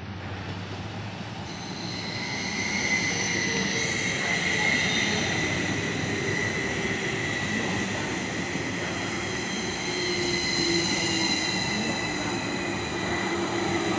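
SBB double-deck S-Bahn train running close past the platform, with a steady rumble. From about two seconds in, a high-pitched metallic squeal of several held tones sounds from its wheels.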